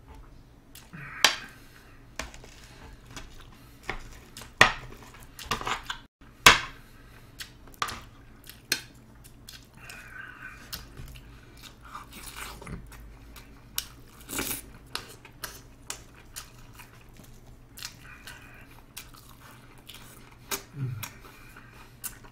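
Close-up chewing and biting of food: yukgaejang, fried pork cutlet and gimbap. Sharp clicks of a metal spoon and chopsticks against bowls and a steel tray come now and then, the loudest about a second, four and a half and six and a half seconds in.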